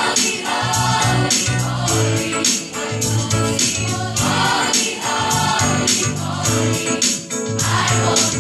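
School choir singing a gospel song in several voice parts over instrumental accompaniment, with a bass line and a steady beat of light, high percussion.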